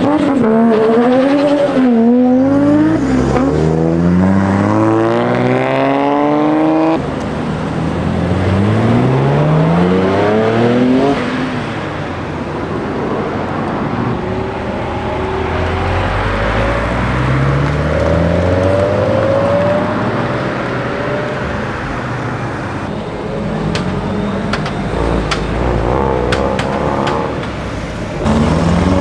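Car engines revving and accelerating away, the pitch climbing in repeated rising sweeps as they pull through the gears. There are abrupt changes about 7 and 11 seconds in.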